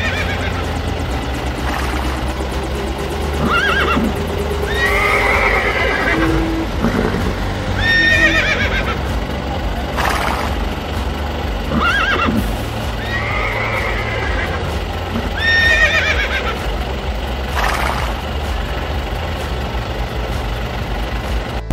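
Horse neighs and whinnies, a call every two to four seconds, about six in all, over a steady low hum. They are sound effects laid over plastic toy horses.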